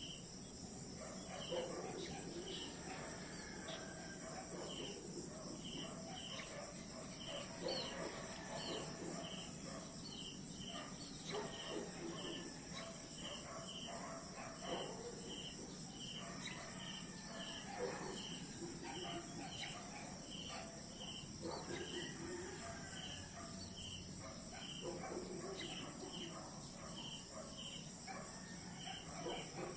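Night-time-style insect chorus: crickets and other insects keeping up a steady high drone, with one short chirp repeated about once or twice a second. Scattered lower animal calls come and go over it.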